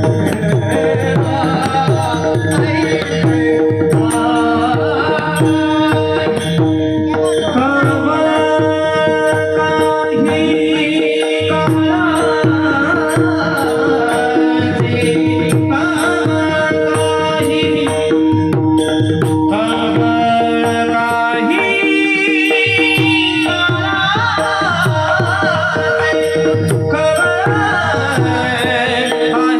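Marathi kirtan music: a mridang drummed in fast, dense strokes under an ornamented solo singing voice, over a steady held drone.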